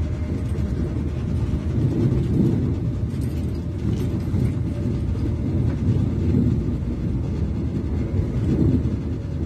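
Steady low rumble of a moving Class 221 Super Voyager diesel train heard from inside the carriage: wheels on rails and underfloor running noise, swelling now and then.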